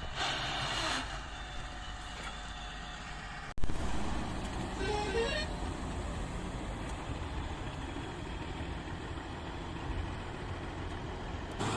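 Diesel engines of heavy earthmoving machinery and dump trucks running with a steady low rumble. There is an abrupt break about three and a half seconds in, and a short rising tone about five seconds in.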